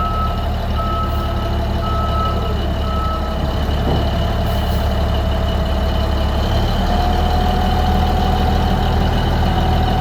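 Komatsu HD465-3 dump truck's diesel engine running steadily while its reverse alarm beeps, about one beep a second, until the beeping stops about three and a half seconds in. The engine note steps up slightly near seven seconds.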